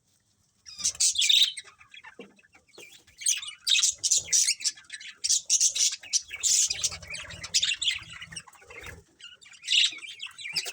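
A colony of budgerigars chirping and chattering in quick overlapping bursts of high notes, after a brief pause at the start. A faint low fluttering comes in for a couple of seconds past the middle.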